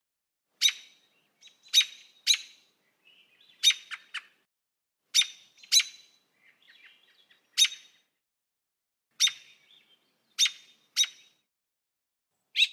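A bird giving short, sharp chirps, singly and in pairs about every second or so, with softer twittering between them.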